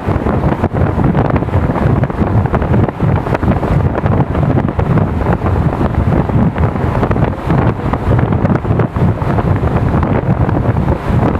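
Wind buffeting the microphone: a loud, steady, blustery rumble with no let-up.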